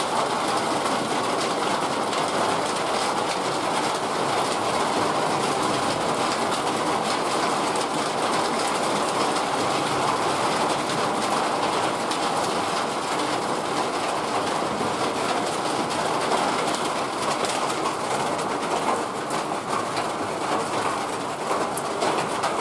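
Heavy rain falling steadily, an even rushing hiss that holds at one level throughout, with a slight dip near the end.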